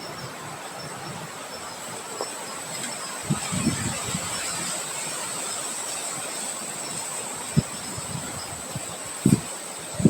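Rain and wind making a steady hiss, with a thin, steady high-pitched tone and a few dull low thumps scattered through it.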